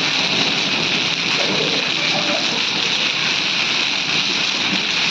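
Heavy rain with hail falling, a steady dense hiss.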